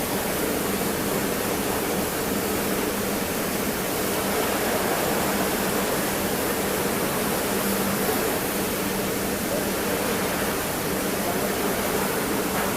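Pressure-washer water jet hissing steadily on a motorbike, with a low steady hum underneath.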